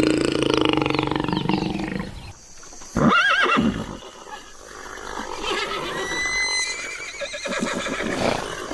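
Animal calls: a long, loud, low-pitched call that stops about two seconds in, then a short, loud call that rises and falls in pitch about three seconds in, followed by fainter calls with a few high thin whistles.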